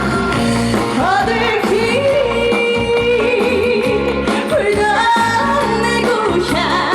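Female singer singing a Korean trot song live over a recorded backing track, holding a long note with vibrato through the middle.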